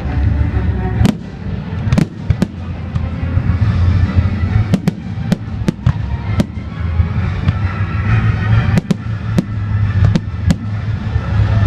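Firework shells bursting overhead: about a dozen sharp bangs at irregular intervals. Under them is the display's music soundtrack and a steady low rumble.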